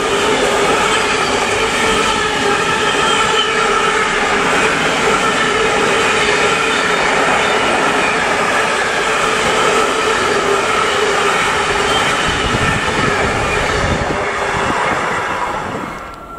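A train running past at close range: a loud, steady rolling rumble with steady high tones over it. It drops away sharply near the end.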